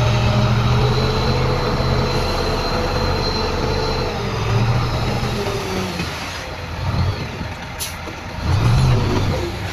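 Heavy diesel earthmoving machinery running, its engine note swelling and dropping several times as it works. A thin high whine is heard in the first few seconds, and a short sharp click comes near the end.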